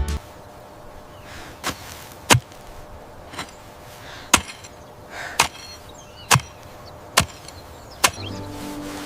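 A series of about seven sharp strikes, roughly one a second, a few of them ringing briefly.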